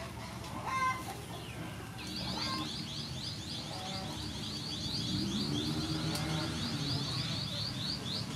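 A bird chirping in a fast, even run of short high notes, about six a second, starting about two seconds in, with a lower wavering sound in the middle.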